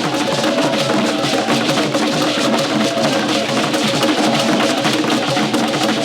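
Festival drumming: an ensemble of drums with a clacking bell or wood-block pattern, played at a fast, steady beat with held tones mixed in.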